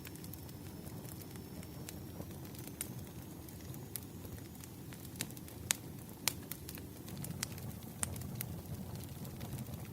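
Wood fire burning: a steady low rumble of flames with scattered sharp crackles and pops from the logs, a few louder pops a little past the middle.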